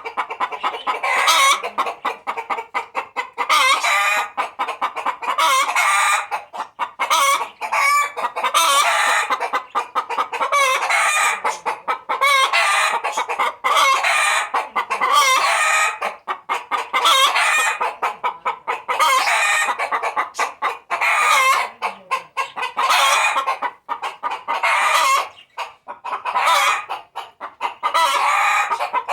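Hen's laying cackle, a long run of rapid, loud clucking calls, with the rooster calling along; it is the racket a hen makes as she is about to lay an egg.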